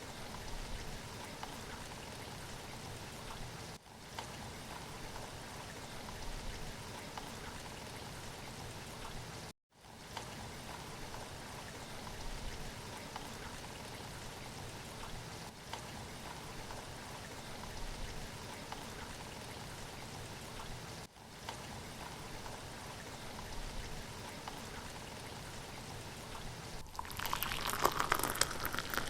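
Steady rain falling, an even patter broken by brief dropouts. Near the end it turns louder and rougher for a couple of seconds.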